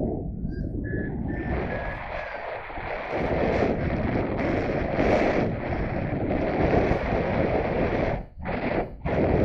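Strong wind buffeting the microphone with a steady rumbling rush. A faint high thin tone sounds in the first two seconds, and the noise drops out briefly twice near the end.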